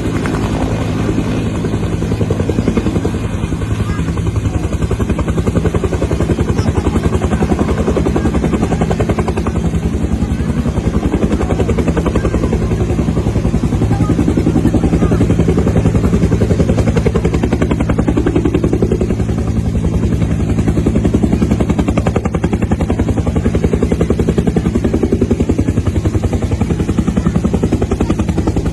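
Helicopter running close by: a loud, steady, rapid thudding of the rotor blades over a low engine hum.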